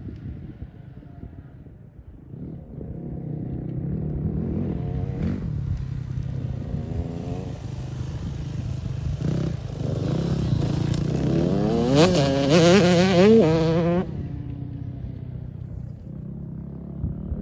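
Motocross dirt bike engine revving up and down as the bike is ridden, with clatter from the bike. About three-quarters of the way through it revs hardest in several quick rising sweeps, then the loud revving cuts off suddenly.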